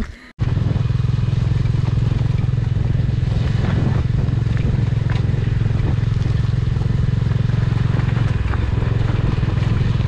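Bajaj Dominar motorcycle engine running steadily while riding, heard close up from the bike. It cuts in suddenly a moment in.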